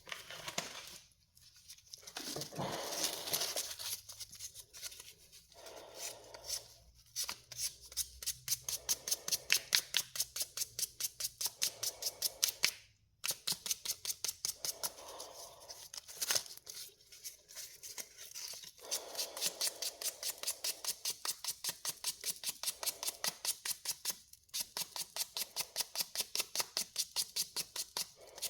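Rosewood rubbed on sandpaper by hand in quick back-and-forth strokes, about three a second, with a few short pauses, sanding off the nub left from parting off.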